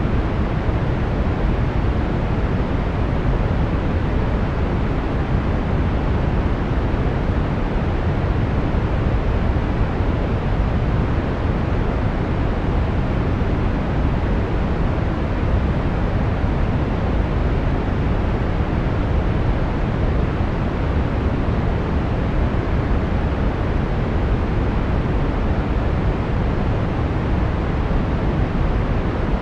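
Brown noise: a steady, even hiss with most of its energy low down, unchanging throughout.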